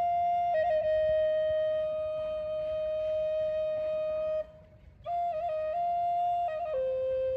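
Native American flute playing a slow melody: one long held note with a small ornament near the start, a short pause about four and a half seconds in, then a new phrase with quick grace-note flutters that steps down to a lower held note.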